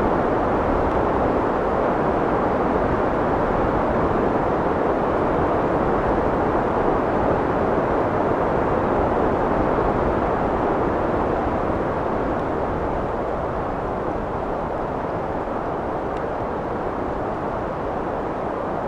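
Steady rushing wind with no gusts or whistles, easing slightly about two-thirds of the way through.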